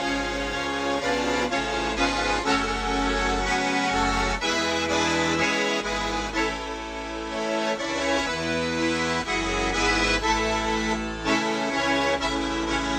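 Accordion music in a traditional folk style, with held chords and a moving bass line.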